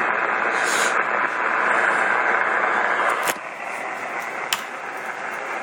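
Hiss and static from an amateur radio receiver on an open shortwave sideband channel between transmissions. A sharp click comes about three seconds in, after which the hiss is quieter, and another click follows about a second later.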